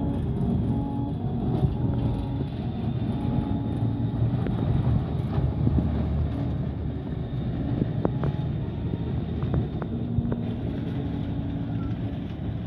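Schynige Platte Bahn electric rack-railway train passing close by, with a steady low rumble from the railcar and carriages on the rack track. A few sharp clicks come from the wheels and rack in the second half.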